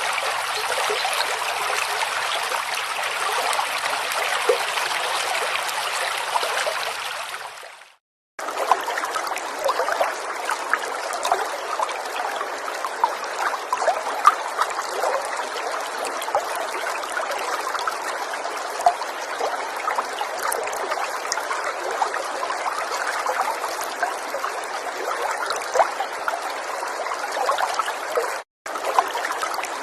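A river's water running and trickling in a steady rush. About eight seconds in it fades out briefly and resumes as a different stretch of stream with more small trickling splashes, then drops out for a moment again near the end.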